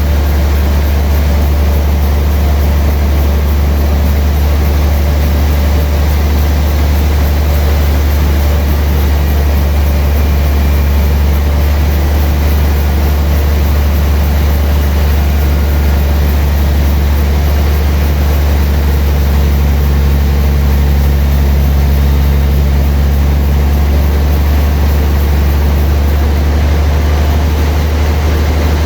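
Sawmill machinery running with a loud, steady low drone. A slight change in its tone comes about two-thirds of the way through.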